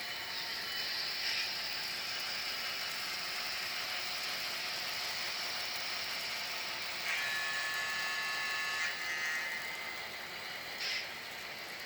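Railroad cars rolling past on steel rails with a steady high metallic hiss. About seven seconds in, a high squealing tone of several pitches comes in for about two seconds, and a short squeal follows near the end.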